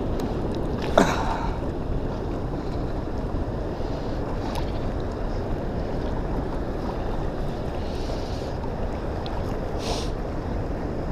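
Steady rush of water from a waterfall below a dam, mixed with wind on the microphone. A brief, sharp swish falling in pitch stands out about a second in.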